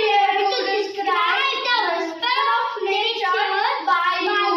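A child singing, a high voice gliding up and down in phrases about a second long with brief breaks between them.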